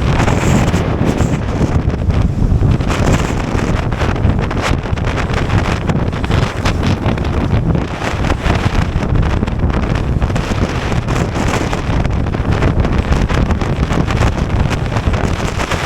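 Strong wind buffeting the microphone: a loud, continuous low rumble that gusts and flutters.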